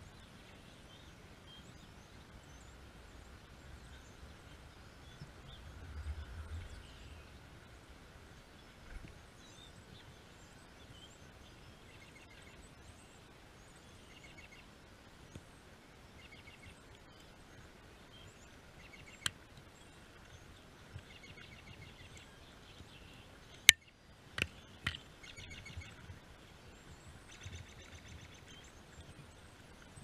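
Small songbirds chirping and twittering, faintly at first and in denser runs near the end. Several sharp, loud clicks about two-thirds of the way through are the loudest sounds.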